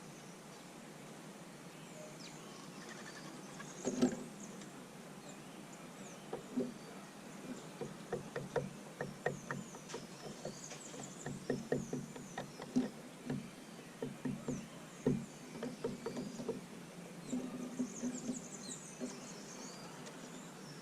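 Small birds chirping at a feeder: short high chirps and quick falling calls. Under them runs an irregular string of light taps and knocks, with a louder knock about four seconds in.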